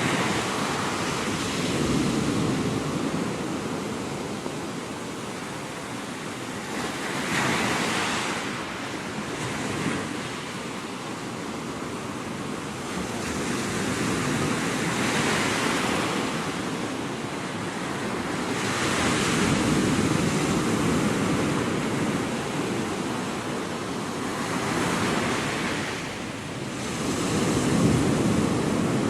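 Small Gulf of Mexico waves breaking and washing up the beach, a hissing swell every several seconds over a steady low rush of surf.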